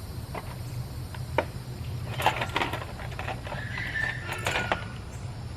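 A steady low hum runs under scattered knocks and taps, which come in clusters near the middle and again about two thirds through. A brief high whine sounds around four seconds in.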